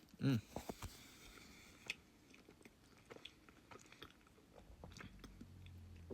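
Someone biting into and chewing toast topped with baked beans: faint, scattered crunches and mouth clicks. A short vocal sound near the start is the loudest part.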